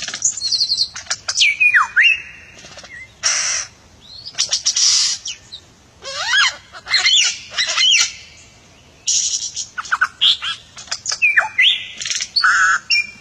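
Bird of paradise calling: a varied string of loud whistles, rising and falling glides and harsh rasping notes, in phrases broken by short pauses.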